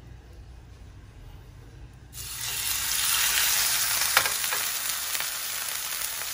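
A marinated tuna steak hitting a hot grill pan and sizzling, starting suddenly about two seconds in and staying loud and steady, with a sharp tick from the tongs pressing the steak a couple of seconds later.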